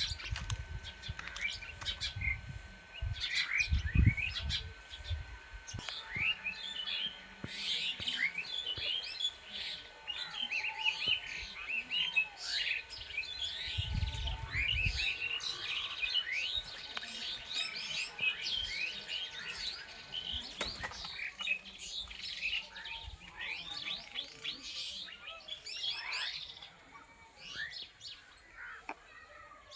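A chorus of many small birds chirping and twittering in quick short notes, busiest through the middle and thinning out in the last third. Under it a steady thin high tone stops about two-thirds through, and a few low rumbles come near the start and middle.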